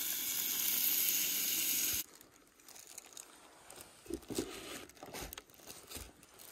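Food sizzling as it fries in a pan on a camp stove, a steady hiss that cuts off suddenly about two seconds in. After that, quieter crinkling and a few light clicks as food is handled at a cutting board.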